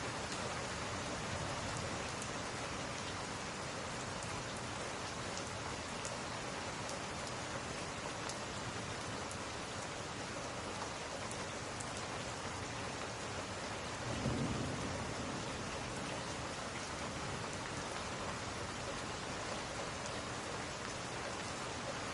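Steady rain on glass, with a brief low rumble about two-thirds of the way through.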